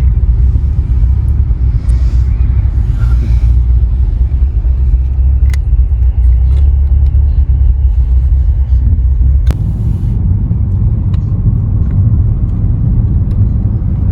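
Steady low rumble of a moving car's road and engine noise, heard from inside the cabin, with a few light clicks, the sharpest about nine and a half seconds in.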